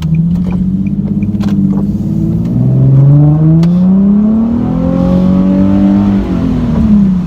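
Nissan 370Z's 3.7-litre V6 with the muffler deleted, heard from inside the cabin while driving. The engine note holds steady, drops in pitch about two and a half seconds in, then climbs as the car accelerates, holds, and falls away near the end.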